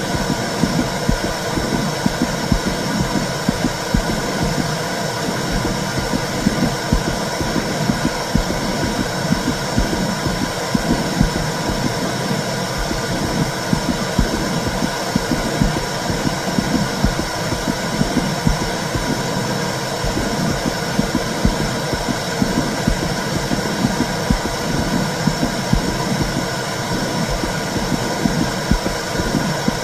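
Womb sound: a steady low whooshing noise with a soft pulse about once a second, like a mother's heartbeat and blood flow heard from inside the body.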